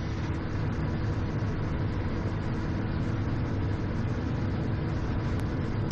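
Steady cockpit noise of a Cessna Citation XL on short final: the even rush of airflow over the airframe and the hum of its twin turbofan engines, with a few faint steady tones.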